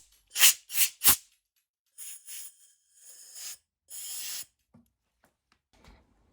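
Short hissing blasts of spray cleaning out a petrol lawnmower carburettor that is clogged with debris: three quick loud bursts, then three softer, longer ones about a second apart.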